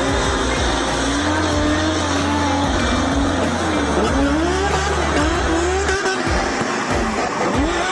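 A motor vehicle's engine revving up and down repeatedly in pitch, over background music with a heavy steady bass line that stops about six seconds in.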